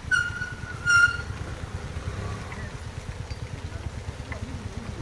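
Motorcycle and scooter engines running at low speed, a steady fast low pulsing, with two short high-pitched tones in the first second, the second one the loudest.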